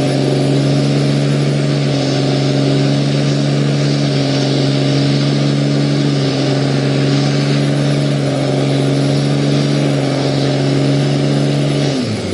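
2000 Dodge pickup's diesel engine held at steady high revs during a burnout, its rear tires spinning. Near the end the revs fall off sharply as the driver lets off.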